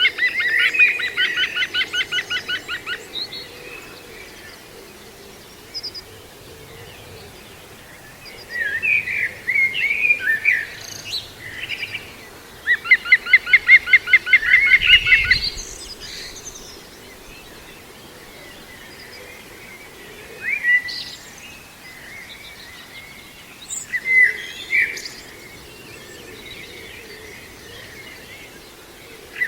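Green woodpecker giving its laughing 'yaffle' call, a fast run of loud repeated notes that fades over about three seconds. The call comes at the start and again about 13 seconds in. Shorter scattered bird calls fall between the runs.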